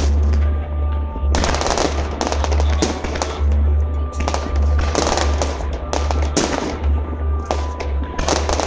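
Aerial fireworks exploding in quick succession: sharp bangs and dense crackling, with a deep low rumble underneath throughout.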